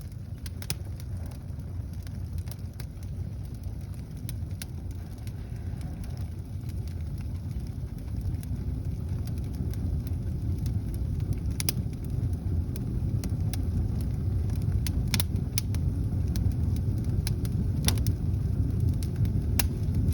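Fireplace fire of crumpled newspaper and kindling burning: a low rumbling roar that grows steadily louder, with sharp crackles and pops here and there as the paper flares and the sticks start to catch.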